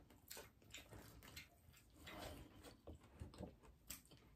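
Near silence, with faint, irregular small clicks and soft mouth sounds of people chewing fried chicken.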